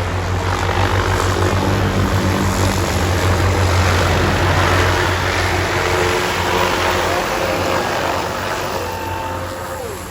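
Aircraft engine flying close by, growing louder to a peak about halfway through and then fading as it moves away.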